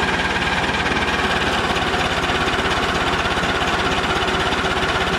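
Allis-Chalmers B tractor engine being cranked over by its starter in a steady, fast, even rhythm without firing or catching. To the owner it sounds as if something is clogged up.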